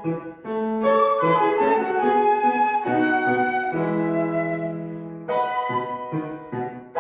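Live piano music: a phrase of notes and chords settles on a chord that fades for about a second and a half, then a new phrase of separate notes begins.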